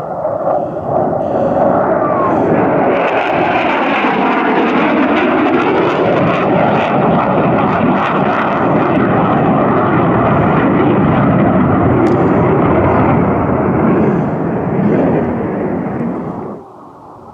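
Military jet passing at low level with loud, steady jet-engine noise for about sixteen seconds, a slowly sweeping hollow tone running through it as the aircraft moves. The noise cuts off abruptly near the end.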